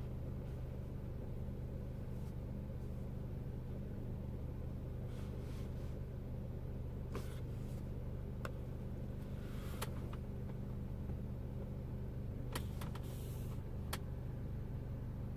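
Peugeot RCZ's 1.6 THP turbocharged four-cylinder petrol engine idling steadily, with a few faint clicks in the second half; the idle holds even here, without the drop that the owner's rough-idle fault causes.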